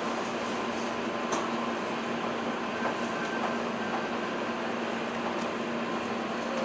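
Inside an electric train pulling slowly into a station: a steady running hum with a few faint ticks.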